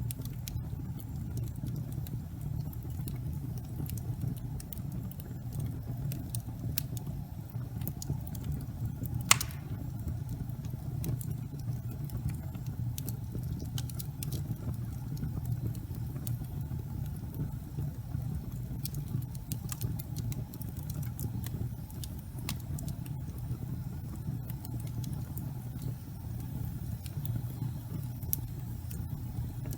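Fire burning in a fireplace: a steady low rumble of flame with scattered light crackles throughout and one sharp pop about nine seconds in.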